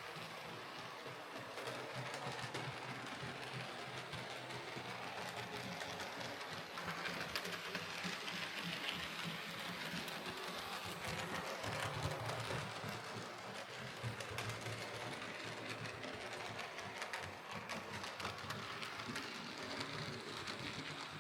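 Hornby OO gauge Rebuilt Merchant Navy model locomotive running along the track on DC power: a steady small electric motor whirr with fine clicking of wheels on rail, a little louder in the middle of the run.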